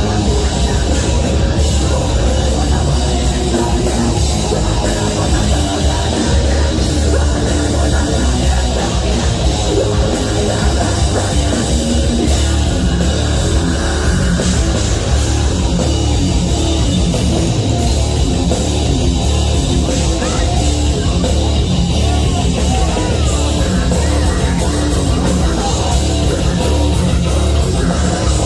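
Live heavy metal band playing, loud and dense throughout, with a heavy low end from bass and drums.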